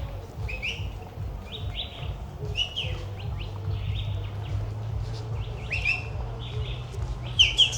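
Birds chirping: a run of short, sharp chirps repeating throughout, with a louder pair near the end, over a steady low hum.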